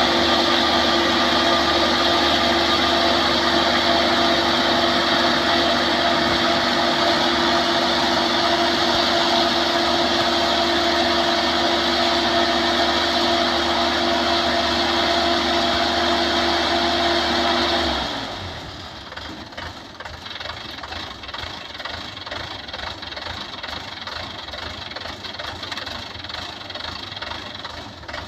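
Combine harvester engine running steadily at speed, then about two-thirds of the way through it suddenly drops away, leaving a quieter, rougher engine idle.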